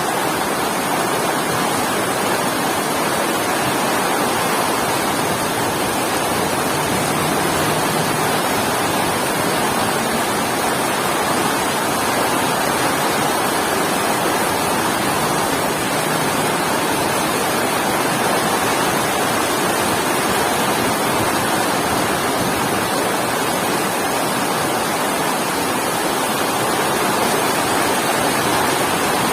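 Heavy rain falling steadily, a dense even hiss with no thunder or other events.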